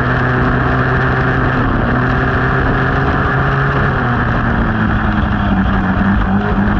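Yamaha dirt bike engine running under steady throttle, heard close up from a camera on the bike. The engine note drops slightly about four seconds in, then climbs a little near the end.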